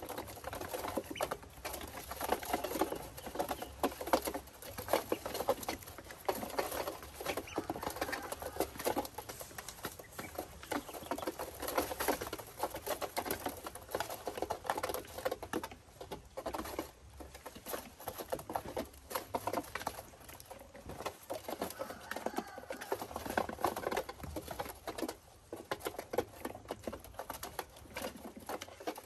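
Newly hatched ducklings moving about, a dense, continuous pattering of small clicks and scuffles.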